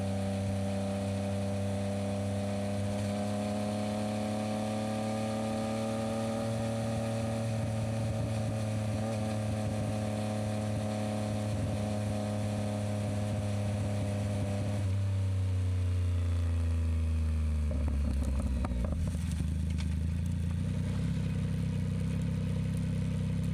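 Yamaha MT-09SP's inline-three engine through an aftermarket Dominator exhaust, running at steady revs. About two thirds through, the revs drop, there is a short patch of clattering, and then the engine settles into a lower, steady note.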